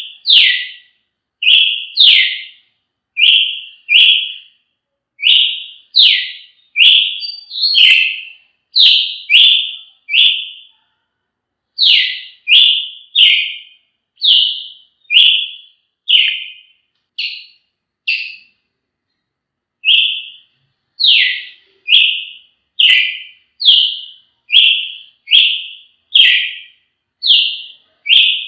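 Brazilian tanager (tiê-sangue) singing: a long run of short, clear whistled notes, many falling in pitch, about one a second and often in pairs, with a brief pause about two-thirds of the way through.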